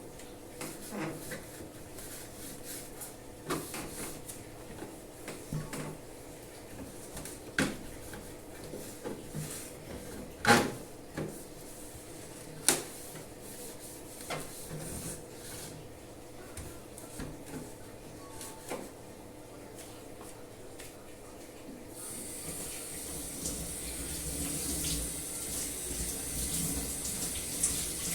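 Scattered knocks and clatter of items being handled, the sharpest about ten and thirteen seconds in. Then, about three quarters of the way through, a tap starts running water into a sink.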